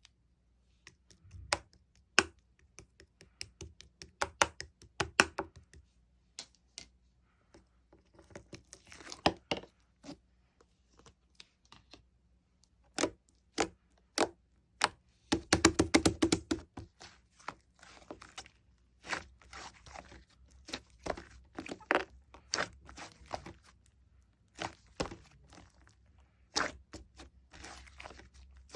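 Slime being poked, pressed and stretched by hand, giving irregular sharp clicks, pops and crackly squishes, with a denser run of them about halfway through.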